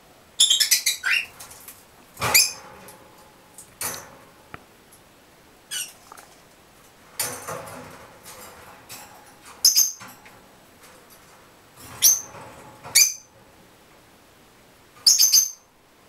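Pet gray birds giving short, high squeaks and chirps in bursts every second or two, some calls falling in pitch, mixed with a few brief knocks or scuffles.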